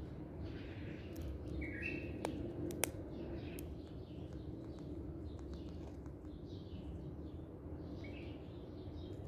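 A parrot making short, scattered chirps over a steady low background hum, with two sharp clicks about two and three seconds in.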